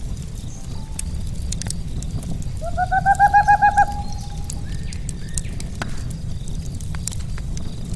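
Campfire crackling over a steady low rumble of burning logs, with scattered sharp pops. About three seconds in, a bird calls once: a quick run of about nine notes, rising at the start.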